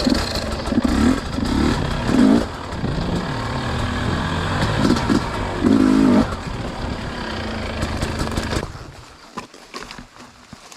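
Dirt bike engine running under varying throttle, revving up in several swells as the bike rides over the muddy trail, then falling away sharply near the end.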